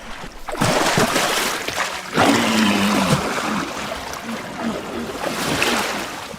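Walruses splashing in the shallows with surf, and a short low walrus grunt about two seconds in.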